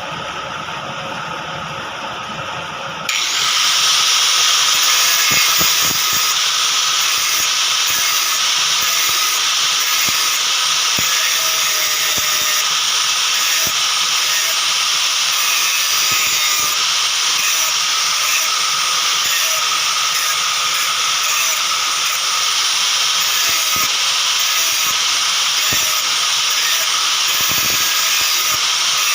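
A machine running, jumping abruptly about three seconds in to a loud, steady hissing noise with scattered light clicks.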